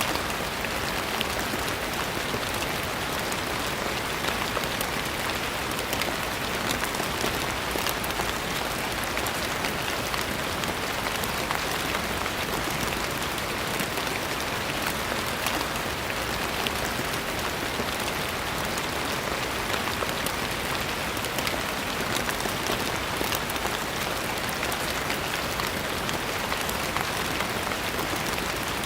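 Steady rain falling and pattering on a surface, an even hiss with many small drop ticks and no change in intensity.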